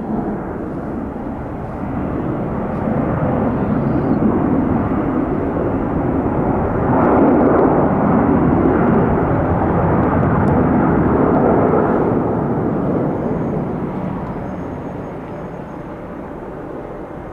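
Airbus A330-300 twin jet engines heard from outside as the airliner lands, a rushing jet noise that swells for several seconds, is loudest in the middle, then slowly fades as it rolls out.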